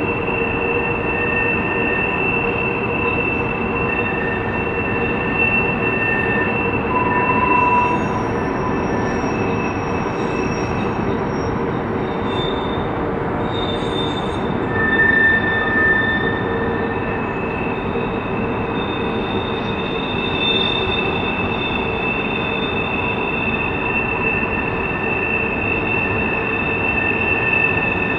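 Freight train cars rolling around a curve, their wheel flanges squealing on the rails in several high, held tones that fade and return over the steady rumble of the wheels.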